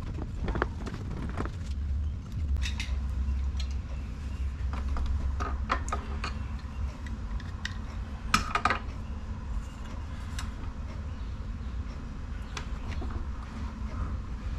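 Scattered metal clinks and knocks as the sump cover of a Tecumseh 5 hp engine is worked down over its guide pins onto the crankcase, with a louder cluster of clinks about eight seconds in. A steady low hum runs underneath.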